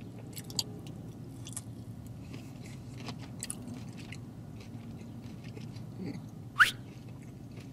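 Close-up chewing of a limp, breaded fried dill pickle spear: scattered soft mouth clicks. A short rising squeak about six and a half seconds in is the loudest sound.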